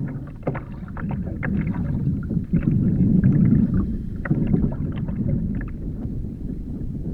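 A sit-on kayak on the sea: water sloshing against the hull with a low rumble, and scattered small knocks and clicks at irregular moments.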